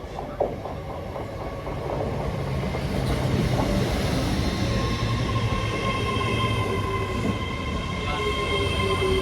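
A train running into the station, growing louder over the first few seconds, with a steady high-pitched whine or squeal that comes in about halfway through.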